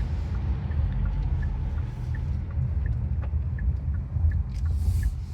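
Car cabin road and engine rumble while driving, with a turn signal ticking evenly about three times a second.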